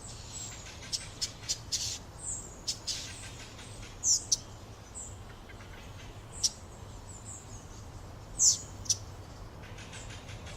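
A songbird calling in a series of short, high chirps and quick down-slurred notes, irregularly spaced, with a faint low hum underneath.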